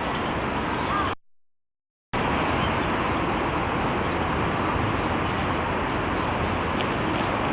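Steady outdoor rushing background noise that drops out completely for about a second, where two recordings are spliced, then resumes. A few faint bird chirps come near the end.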